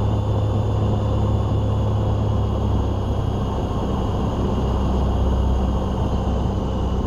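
Steady drone of a Van's RV-7's piston engine and propeller heard from inside the cockpit, a low hum with a few faint steady high tones above it.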